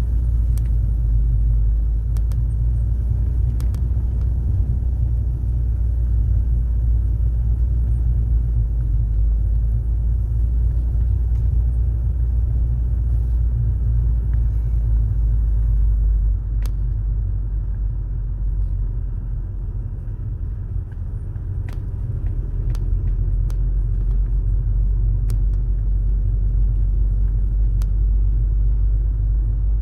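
Car driving along a road: a steady low rumble of engine and tyres, with a few faint clicks and knocks scattered through it.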